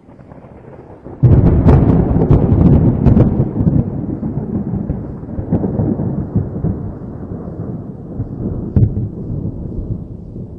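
A thunderclap: a sudden loud crash a little over a second in, crackling at first, then a deep rumble that slowly dies away, with one more sharp crack near the end.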